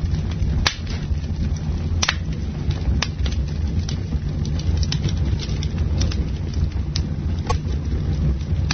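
Wood campfire burning with a steady low roar and frequent sharp crackles and pops, a few louder snaps among them.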